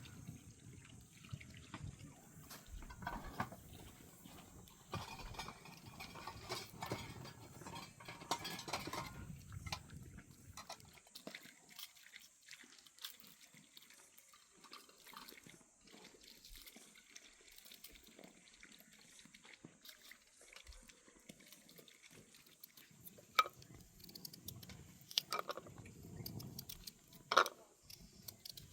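Water splashing and dripping, busier for the first ten seconds or so, then scattered light clicks and a couple of sharper knocks near the end.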